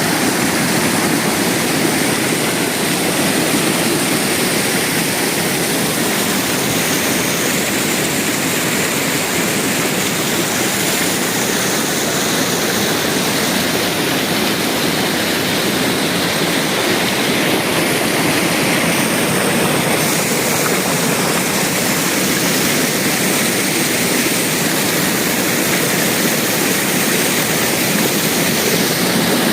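Waterfall: a steady rush of falling water without a break.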